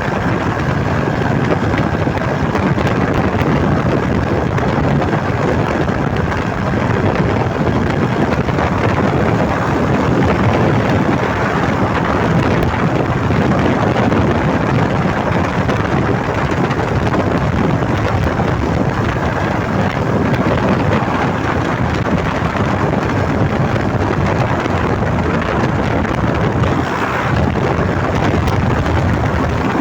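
Vehicle with a modified, gutted ('operado') exhaust running steadily, with wind buffeting the microphone.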